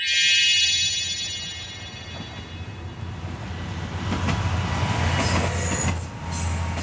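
Train sounding a high, multi-toned whistle that cuts in suddenly and fades over about a second and a half, while the train runs with a steady low rumble.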